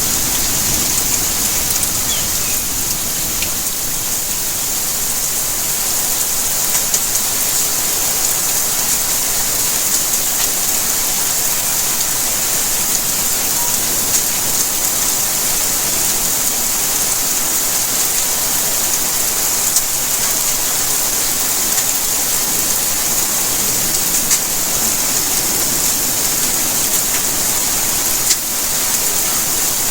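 Steady rain falling, a dense even hiss with scattered drops ticking on surfaces.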